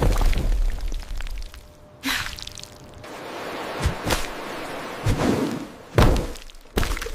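AI-generated ASMR sound effects: a string of short clips with dull thuds and knocks and noisy swishes between them, the strongest thud about six seconds in, each clip starting and stopping abruptly.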